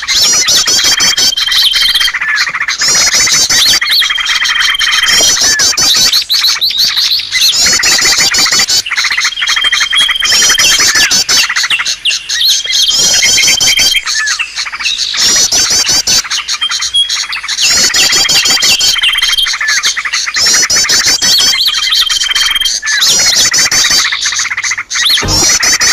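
Bird-lure recording of small songbirds calling over one another: dense high chirping and chattering, with one held whistle recurring about every two seconds between quick bursts of sweeping chirps. The calls repeat in an even, looped pattern.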